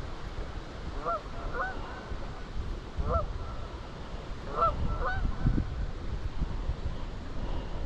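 Goose honking, about six short calls over the first five seconds, over a steady low rumble of wind on the microphone.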